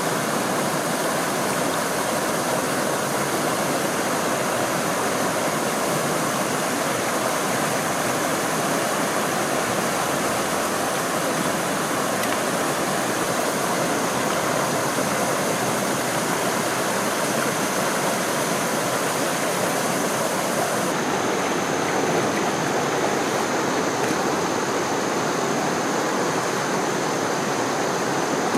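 Stream water rushing steadily below a waterfall, an even, unbroken sound of flowing water. The brightest part of the hiss drops away about two-thirds of the way through.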